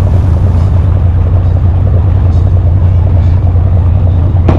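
Boat engine running steadily, a loud low hum heard from on board, with a single sharp click near the end.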